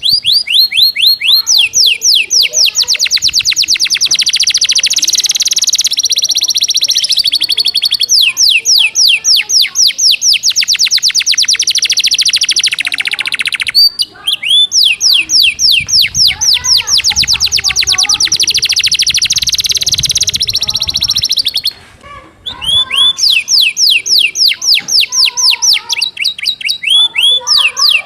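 Domestic canary singing a fast, densely packed song filled in with cinereous tit (gelatik batu) phrases. It comes as rapid trills of quick sweeping notes in three long phrases, with brief pauses about a third and two-thirds of the way through.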